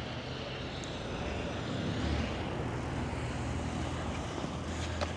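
Road traffic: a motor vehicle driving by, a steady rushing noise over a low engine hum that swells about two seconds in.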